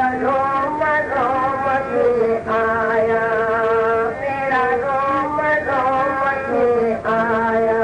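A devotional hymn (bhajan) being sung with musical accompaniment: a voice moving through ornamented phrases and holding long steady notes, one from about two and a half to four seconds in and another near the end.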